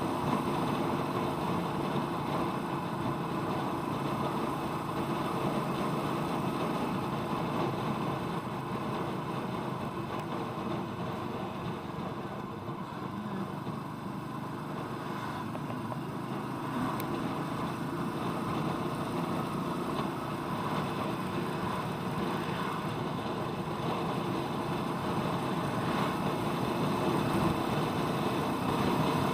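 Royal Enfield Meteor 350's single-cylinder engine running steadily while the motorcycle is ridden along the road. It eases off a little around the middle and builds again near the end.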